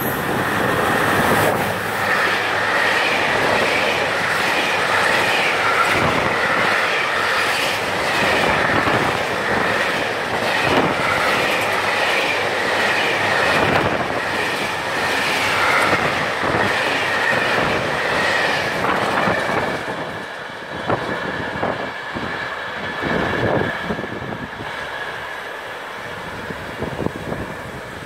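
Container freight train hauled by an E483 electric locomotive passing through a station: the wagons' wheels clatter rhythmically over the rail joints, with a steady high tone above the clatter. About twenty seconds in the sound drops off and fades as the train draws away.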